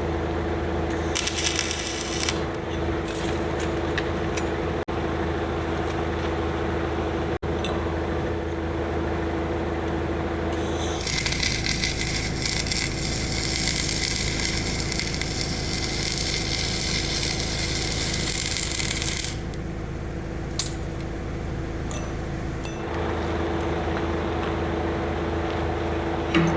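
Steady machine hum in a steel fabrication workshop. About a third of the way in, it gives way to roughly eight seconds of harsh, hissing metalwork noise as the new cheek plate is worked into the dozer blade.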